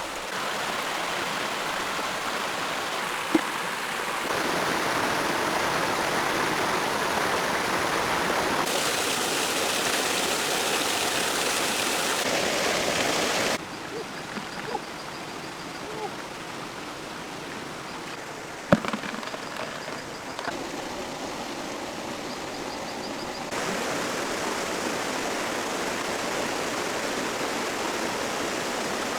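Steady rush of running water that jumps up and down in level at several abrupt cuts, with a few sharp knocks, one loud one about two-thirds of the way through.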